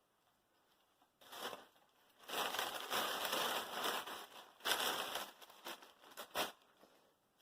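Packaging rustling and crinkling as clothing is handled and unwrapped, in irregular bursts that start about a second in and are busiest in the middle.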